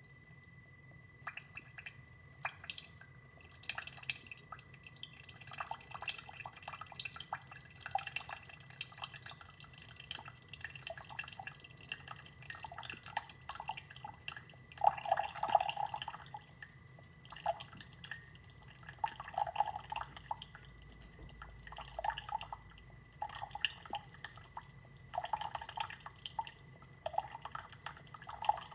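Horavie single-serve coffee maker brewing: coffee dripping and sputtering irregularly into the cup, over a faint steady high whine.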